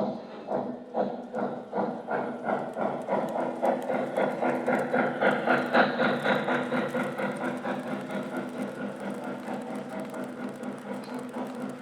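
Lionel O-scale model train's electronic sound systems, from the locomotive and the Freight Sounds boxcar, playing train running sounds through small onboard speakers. It is a rhythmic beat that starts suddenly, quickens and grows louder over the first several seconds, then settles into a steadier, softer pace.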